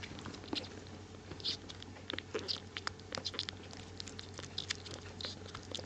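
Kittens lapping and licking milk: a soft, irregular run of small wet clicks and smacks.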